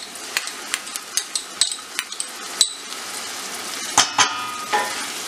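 Onions frying in mustard oil in a stainless steel pot: a steady sizzle with many small crackling pops. About four seconds in, a wooden spoon stirs and knocks against the pot two or three times, and the pot rings briefly.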